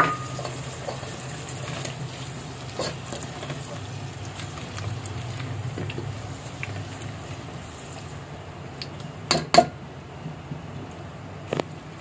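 Onion-and-spice masala sizzling gently in a nonstick pot while cut potato pieces are stirred through it with a silicone spatula, with light scraping. A few sharp knocks stand out, two together about nine and a half seconds in and one more near the end.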